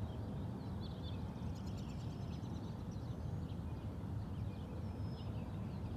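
Small birds chirping with many short, high calls over a steady low rumble of outdoor background noise.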